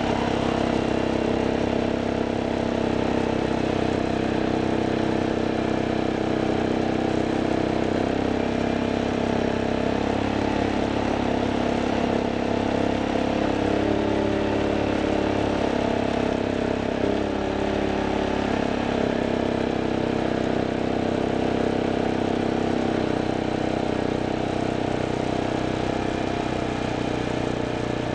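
A vehicle's engine running steadily while under way, its pitch shifting slightly now and then.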